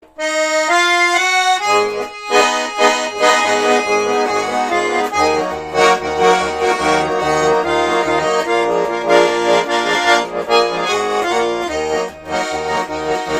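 Russian garmon (button accordion) playing an instrumental introduction: a melody of single notes at first, joined about five seconds in by a steady rhythmic bass-and-chord accompaniment.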